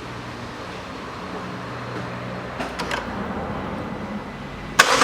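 A low steady hum with a few light clicks, then near the end the Peugeot 408's 1.6 petrol engine is cranked and fires, starting up suddenly and loudly with a rapid run of strokes.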